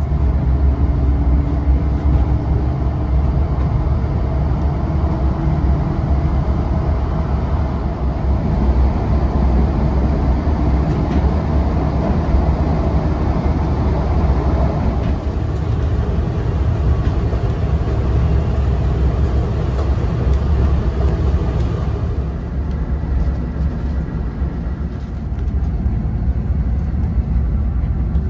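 Steady low rumble heard from inside a moving vintage train as it rolls along the track, with a faint pitched hum in the first few seconds.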